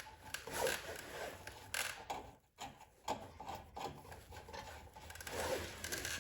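Irregular rubbing and scraping with scattered small knocks, from hands working the fuel line and carburetor parts on a snowblower engine.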